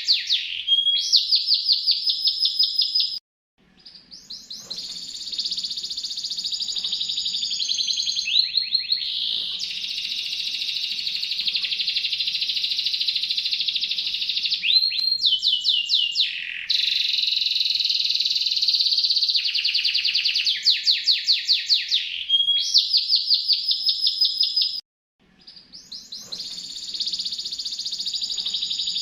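A songbird singing long runs of rapid repeated notes and trills, switching between trill types every few seconds. The song cuts out completely twice, about three seconds in and again near the end, then fades back in.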